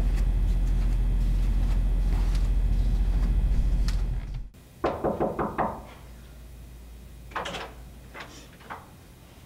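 A steady low hum that cuts off about four and a half seconds in, then a quick run of about five knocks on a door, followed a couple of seconds later by three more spaced knocks.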